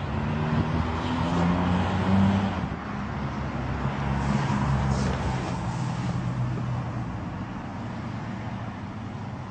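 Car engine running, louder and shifting in pitch over the first several seconds, then easing off to a quieter steady hum.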